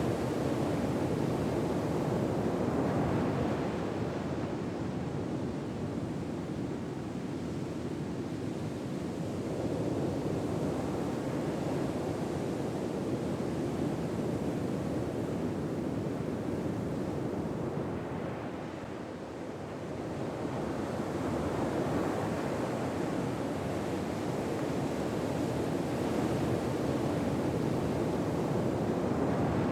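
Gentle ocean waves washing onto a shore, a steady surf noise that swells and fades slowly over several seconds, with a brief lull about two-thirds of the way through.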